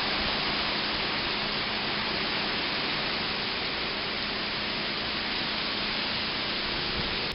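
Heavy hurricane rain coming down, a steady hiss, with a faint low hum beneath it.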